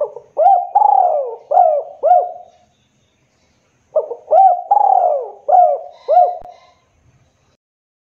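Spotted dove (tekukur) cooing: two phrases of about five low, throaty coos each, separated by a pause of just over a second.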